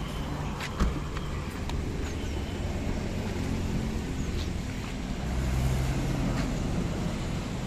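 Motor vehicle engines idling amid road traffic: a steady low hum that gets louder about five seconds in. A single sharp click comes just under a second in.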